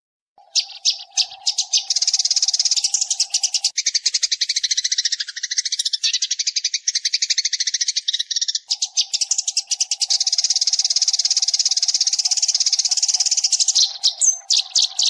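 A flock of sparrows chattering, from a recorded lure call: many rapid overlapping chirps in a dense, continuous stream. It starts about half a second in and cuts off abruptly at the end. A faint low hum runs underneath for the first few seconds and again in the second half.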